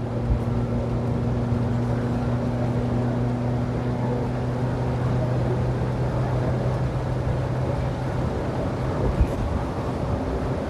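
1992 Winnebago Lesharo motorhome accelerating at full throttle: a steady engine drone mixed with road and wind noise.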